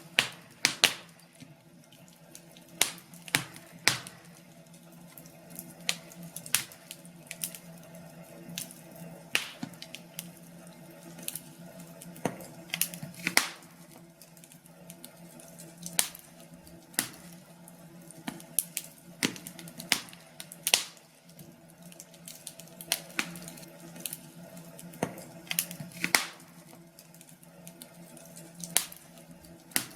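Wood fire crackling in a fireplace, with irregular sharp pops at uneven intervals over a faint steady low hum.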